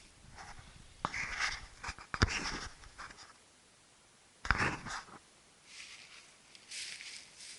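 Irregular crunching rustles, a few separate steps through dry fallen leaves, the loudest about two and four and a half seconds in.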